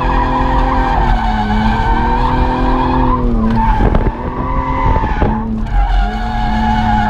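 BMW 1 Series engine revving hard, its pitch rising and falling as the throttle is worked through a drift, with the tyres squealing. About halfway through the engine note breaks off for a couple of seconds under a burst of rough tyre and skid noise, then picks up again.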